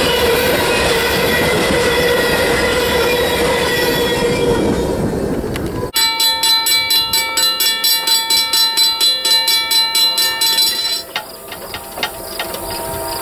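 Freight train of covered hopper cars rolling past with steady wheel-on-rail noise and a high wheel squeal. About six seconds in it cuts to a ringing railroad crossing bell, about three to four strokes a second, which falls away near the end as a faint train horn begins.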